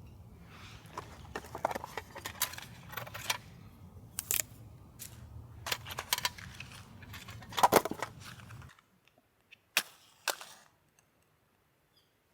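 Irregular sharp cracks and snaps over a low steady rumble, the loudest coming close together about two-thirds of the way through. The rumble cuts off suddenly soon after, and two more single cracks follow.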